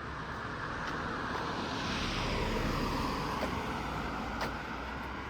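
A vehicle passing by: a rushing noise that swells to a peak about halfway through and falls in pitch as it fades.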